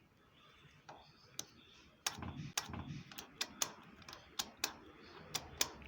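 A series of sharp, irregular clicks and light knocks, about a dozen over a few seconds, like hard parts being handled.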